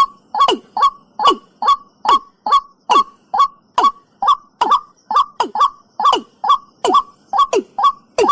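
Watercock (cúm núm) calling in a rapid, unbroken series of about two to three calls a second. Each call is a short, sharp note that drops steeply in pitch. This is a recorded call for luring the bird.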